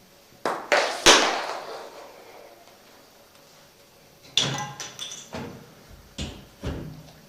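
Metal clanks and knocks on a steel wood-burning stove: two sharp bangs early on, then a cluster of knocks with a brief metallic ring, and two more knocks near the end.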